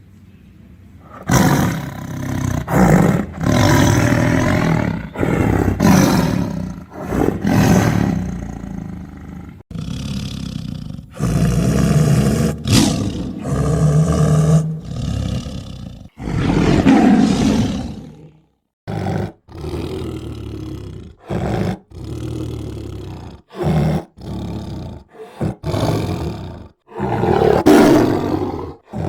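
Tiger roaring and growling in a string of loud, repeated roars. They start about a second in and come almost back to back, then break into shorter, separate roars with brief gaps in the second half.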